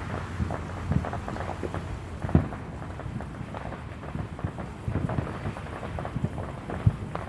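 Neighbourhood fireworks going off in the distance: a rumble of scattered pops, crackles and low booms, with two sharper bangs, one about two and a half seconds in and one near the end.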